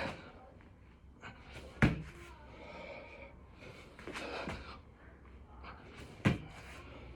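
A person doing six-count burpees, breathing hard, with two sharp thuds on the floor about four and a half seconds apart.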